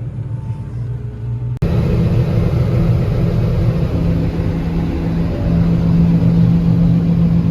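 Combine harvester running steadily with a low engine hum; about a second and a half in the sound cuts and comes back louder, a steady machine din with a droning low tone joining a couple of seconds later.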